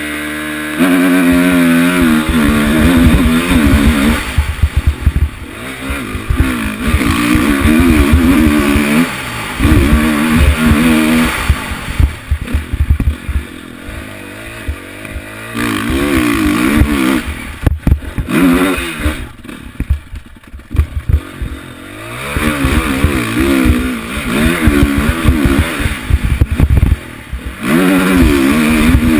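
Motocross engine heard from an onboard camera, revving up and falling back in repeated bursts of throttle with short let-offs between them. Low rumbling buffets run under the engine throughout.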